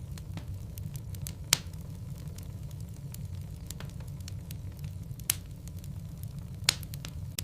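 Wood logs burning in a fireplace: a steady low rumble of flame under frequent small crackles, with three sharp loud pops from the burning wood.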